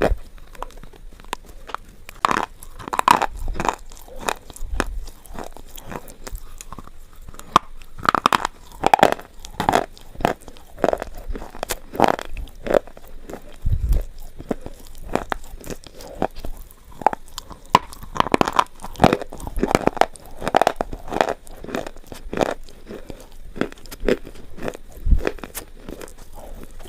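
Slate pencils being bitten and chewed close to the microphone: a steady run of sharp, dry crunches and crackles, several a second.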